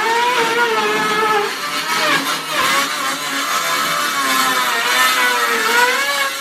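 Power tool motor running steadily, its whine wavering slightly up and down in pitch as the load changes.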